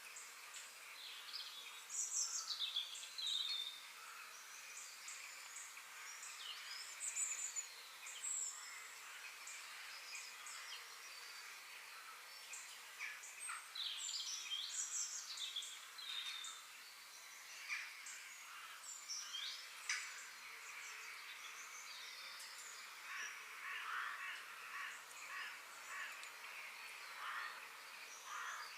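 Several wild birds chirping and singing, short calls and quick falling whistles overlapping one another over a steady outdoor hiss, with a denser run of chirps near the end.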